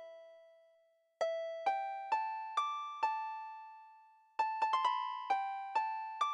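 A simple melody of single struck notes, each ringing and fading away, played slowly. A held note dies out first. After a brief silence, five notes climb in pitch about half a second apart, and after a pause a quicker run of notes follows.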